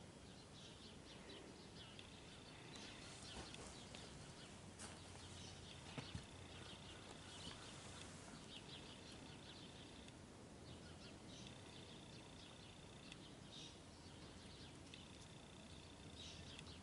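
Near silence with faint birdsong: high chirps and short trills that recur every few seconds.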